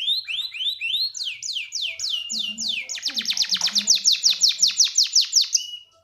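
Male canary singing in repeated phrases: a run of short rising notes, then slower downward-sweeping whistles, then a faster series of falling notes about six a second, ending on a brief steady note. A male in breeding condition calling to a female.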